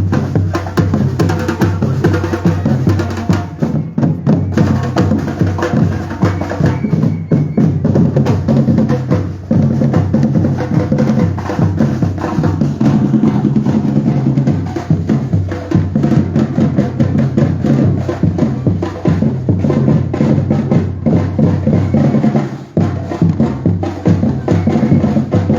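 Batucada percussion group drumming a dense, continuous rhythm.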